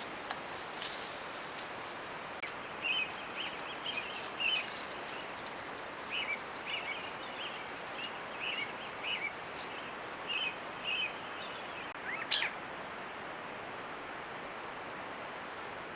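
A bird chirping in runs of short, high chirps for several seconds, then one louder, brief rising call, over a steady background hiss.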